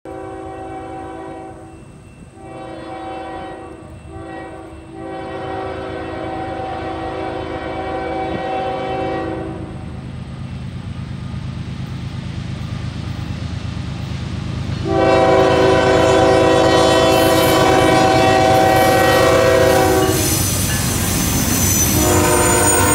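Freight diesel locomotive's air horn sounding a chord of several tones: two long blasts, a short one and a long one, the standard grade-crossing signal. After a pause come two more, louder long blasts, over the steady rumble of the approaching locomotives.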